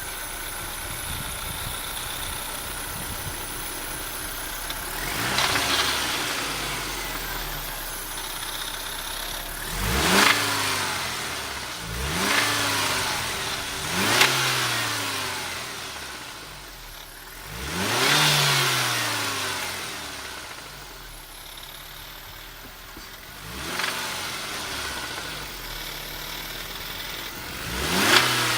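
BMW E46 318i's M43B19TU 1.9-litre four-cylinder engine idling and blipped up about seven times, each rev rising and falling back to idle. Its intake DISA valve has a loose flap, which makes the rattle heard from the engine.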